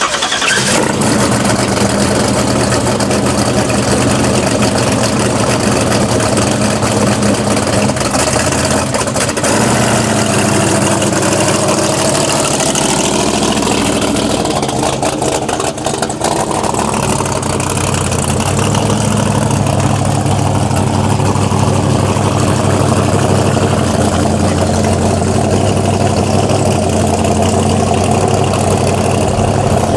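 Car engine idling loudly and steadily, its note shifting slightly a couple of times.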